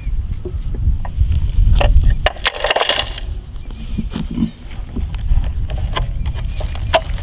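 Wind rumbling on the microphone for about the first two seconds, then scattered clicks and a brief rustling scrape about two and a half seconds in, from toy trucks being handled in mulch.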